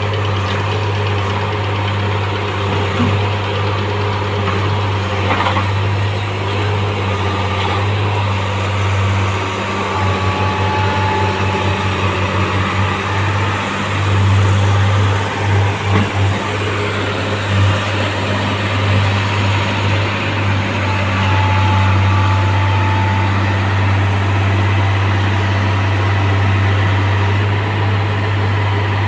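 Heavy diesel engine of a railway track-changing machine running steadily with a deep hum. For a few seconds midway it throbs at about four pulses a second.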